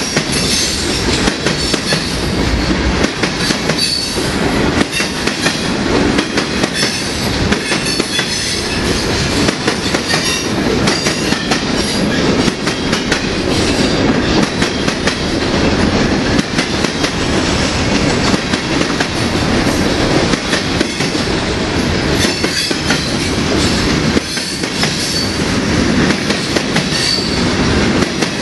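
Freight train's covered hopper cars rolling steadily past: wheels rumbling and clattering over the rail joints, with brief high wheel squeals now and then.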